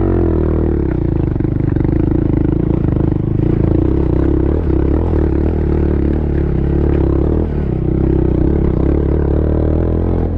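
Small single-cylinder motorcycle engine running at a steady, even idle close by, its note settling just at the start, with a few light knocks over it.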